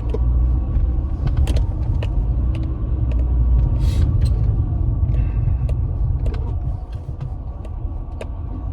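Car driving along, a steady low rumble of engine and road noise, with scattered light clicks and rattles and a brief swish about four seconds in.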